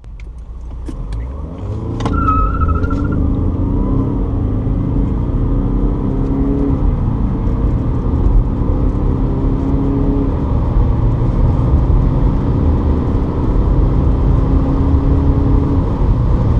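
Car accelerating hard from a standstill, its engine rising in pitch through each gear and dropping back at each upshift, over a steady low rumble. A few clicks and a short high tone come in the first few seconds.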